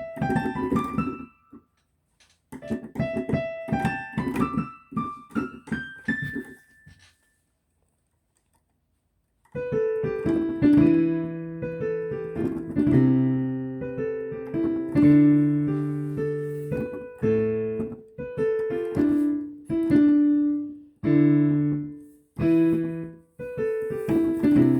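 Piano being played: a quick climbing phrase, stopped and then played again, then a pause of a couple of seconds, then slower chords over held bass notes.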